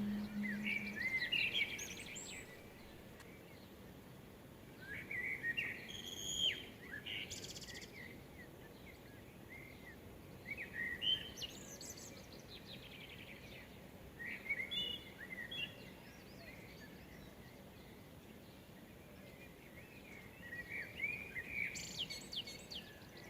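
Wild songbirds singing short, quick warbled phrases every few seconds over a steady background hiss.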